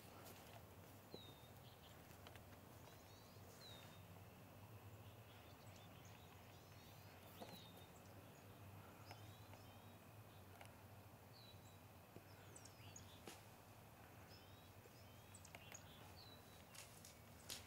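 Faint outdoor ambience with birds calling: a short chirp repeated every few seconds and a few quick trills, over a soft steady hiss with occasional light rustles.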